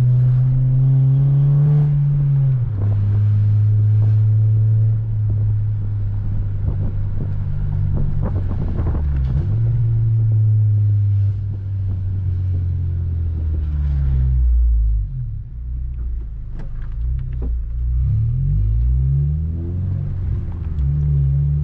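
8th-generation Honda Civic Si's four-cylinder engine running under way, a steady low drone. The engine note drops about three seconds in and again around fifteen seconds, then climbs in several short rises of revs.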